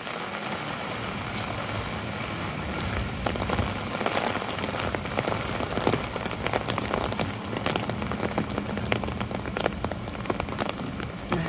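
Steady rain hissing on wet pavement, with raindrops tapping sharply on an umbrella overhead; the tapping grows thicker from about three seconds in.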